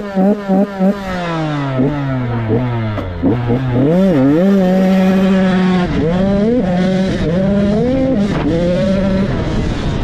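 Motocross bike engine being ridden hard, its pitch rising and falling with throttle and gear changes. It opens with a few quick throttle blips, then the pitch drops, climbs and holds high for a couple of seconds before dipping and rising again.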